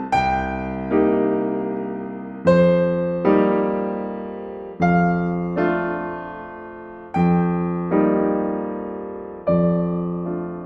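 Solo piano playing a slow, gentle piece: chords struck in pairs about every two and a half seconds, each left to ring and fade.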